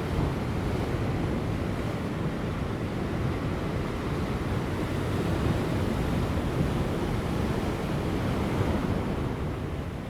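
Large ocean waves breaking on rocks: a continuous rushing surf that swells a little toward the middle and eases near the end, with light wind.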